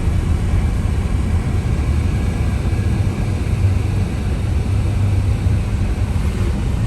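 Car in motion, heard from inside the cabin: a steady low rumble of engine and road noise.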